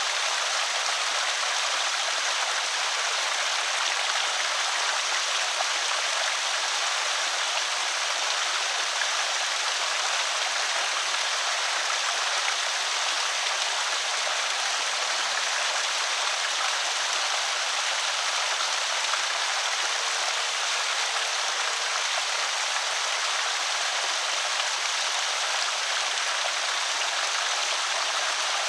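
Water pouring steadily over a small creek spillway, an even rushing splash.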